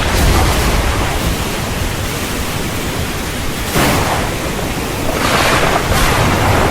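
Heavy rain pouring steadily over a low rumble of thunder, with a sudden louder surge about four seconds in.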